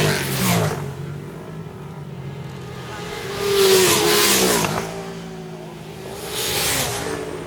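Racing motorcycles passing at speed one after another, each engine note dropping in pitch as it goes by. One pass fades just after the start, a louder one goes by at about four seconds, and a third comes through near the end.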